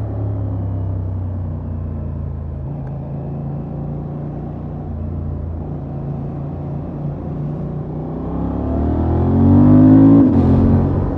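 Honda XL750 Transalp's parallel-twin engine through its stock exhaust, cruising at steady revs. About eight seconds in the revs climb under acceleration and the engine gets louder, then the revs drop sharply near the end and settle back to steady running.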